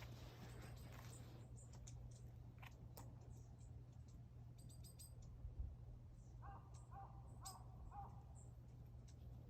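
Near silence with a steady low hum and a few faint clicks. About two-thirds of the way in comes a quick run of five short, pitched animal calls.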